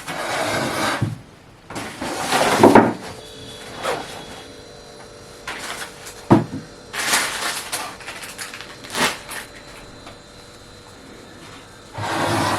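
Rough scraping and sliding noises, several bursts of about a second each, with a sharp knock about six seconds in, as of objects being shifted and handled.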